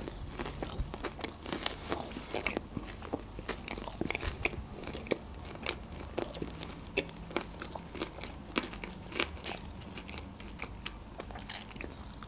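A person chewing a mouthful of sushi roll close to the microphone: a steady stream of small, irregular wet clicks and crackles, with a fresh bite near the end.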